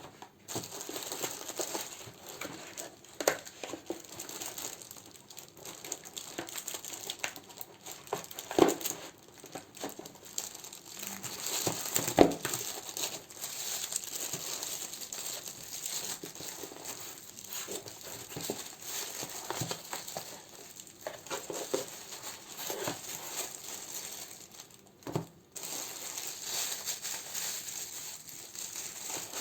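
Plastic and paper packaging crinkling continuously as candles are handled and sorted, with a few sharp taps along the way.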